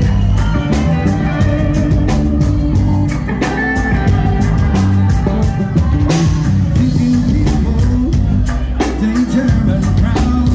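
Rock band playing, with guitar over drums keeping a steady beat.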